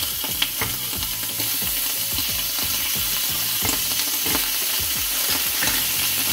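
Zamburiña scallops sizzling meat-side down in butter sauce on a smoking-hot cast-iron griddle, a steady frying hiss. A few light clicks come as more shells are set down on the plate.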